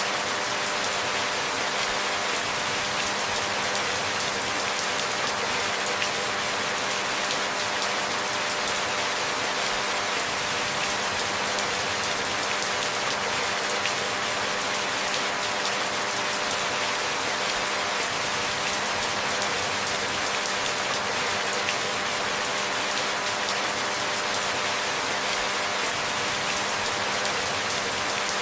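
Steady rain falling, a dense even hiss of many small drop hits with no change in strength, over a faint steady hum.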